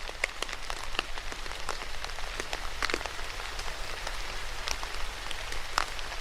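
Steady rain falling, with a constant hiss and many distinct drops striking a surface at irregular moments.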